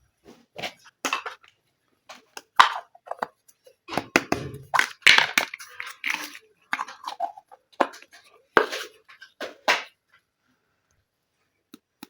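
Small plastic toy kitchen pieces and packaging being handled up close: an irregular run of clicks, taps and rustling scrapes, busiest in the middle and dying away near the end.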